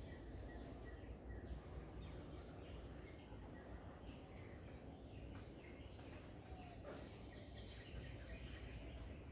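Quiet garden ambience: a steady high-pitched insect drone, with faint scattered bird chirps over a low background rumble.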